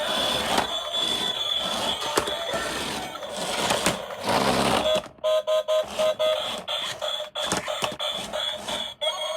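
Electronic tones and beeps from a battery-powered toy, steady at first and then breaking into rapid on-off stutters about halfway through.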